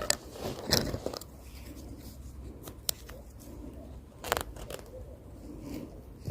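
Scattered soft clicks and crunches of someone eating prickly pears, with louder crunches about a second in and again about four seconds in.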